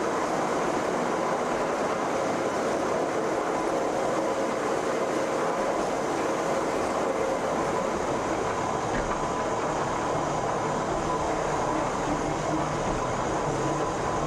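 Pilatus Railway cog-railway railcar running steadily up the rack: a continuous rumble and rattle of the train with a steady whine.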